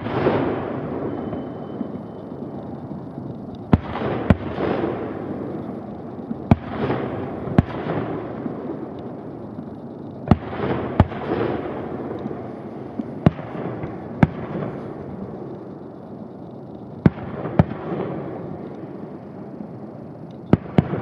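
Aerial fireworks shells bursting: about a dozen sharp bangs, often in pairs, each followed by a long rolling rumble that fades over a second or two.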